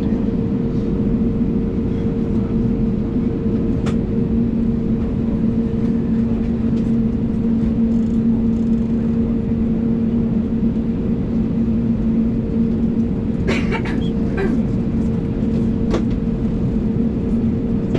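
Steady cabin hum of an Airbus A320neo on the ground with its engines idling, two steady droning tones over a low rumble. A brief click about four seconds in and a short cluster of small knocks near the end.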